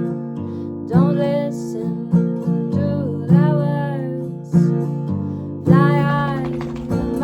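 Acoustic guitar strummed in a slow, even rhythm, a strum about every second, with a voice singing a melody over it.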